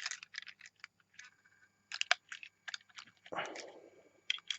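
Crackling and clicking of a small plastic toy and its packaging being handled, with a brief brushing rub a little past three seconds.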